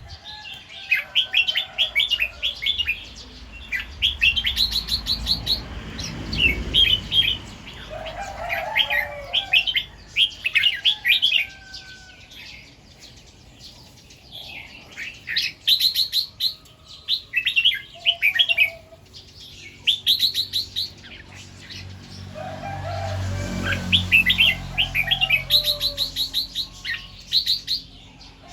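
Red-whiskered bulbul singing: bouts of quick, high chirping phrases separated by short pauses. A faint low rumble rises twice underneath.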